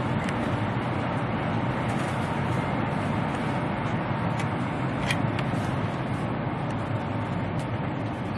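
Steady rushing noise inside a high-speed bullet train's passenger cabin as it runs at speed, with a faint click about five seconds in.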